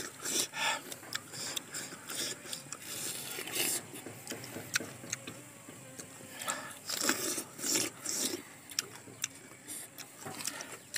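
Close-up eating sounds of crisp, juicy star fruit being bitten and chewed, with irregular crunches coming in clusters.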